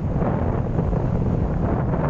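Steady wind buffeting the microphone, a dense low rumble that masks any surf.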